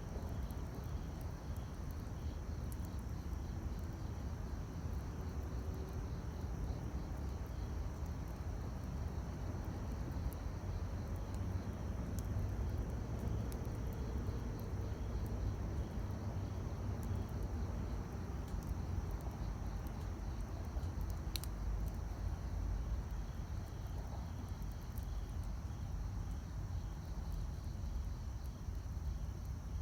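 Wood campfire burning, with scattered faint crackles and one sharper pop about two-thirds of the way through, over a steady low rumble.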